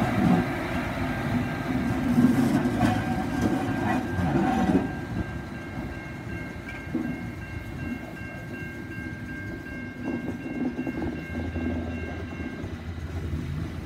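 Diesel railcar rumbling and clattering over the rails as it passes through a level crossing, then fading quickly about five seconds in as it pulls away. Level-crossing bells ring steadily and stop near the end, as a low hum of the boom-gate mechanisms lifting the booms sets in.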